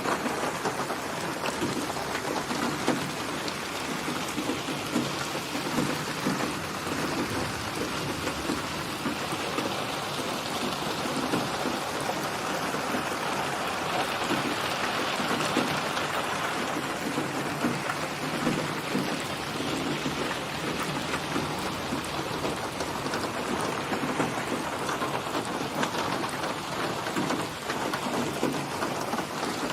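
Steady rain falling, a dense patter of drops, growing a little heavier about halfway through before easing back.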